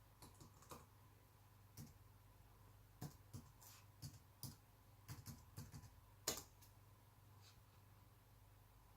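Laptop keyboard keys typed one at a time in an irregular run of a dozen or so soft clicks, with a single louder key press a little past six seconds in: a password being typed at the login screen of an Alienware M17x R2.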